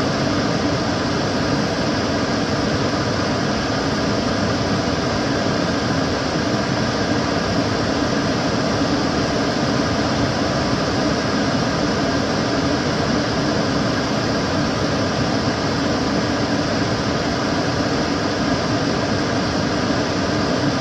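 Kitchen cooker hood extractor fan running steadily: an even airy rush with a faint motor hum underneath.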